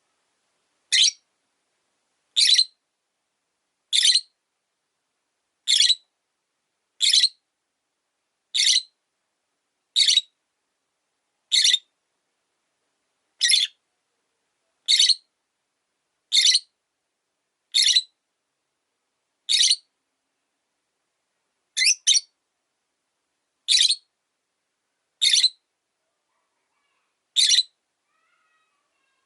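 Rosy-faced lovebird giving short, sharp, shrill chirps, one about every second and a half, evenly repeated with quiet between; two come close together about twenty-two seconds in.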